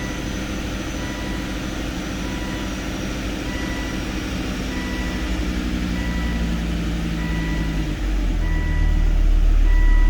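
Volvo V70R's turbocharged five-cylinder engine idling just after a cold start, a little louder than usual because the resonator has been deleted. A high electronic beep repeats about once a second, and near the end the engine's low drone gets louder and deeper.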